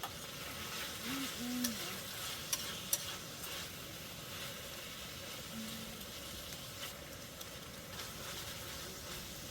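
Food sizzling steadily in a frying pan, with a few light clicks of a utensil against the pan.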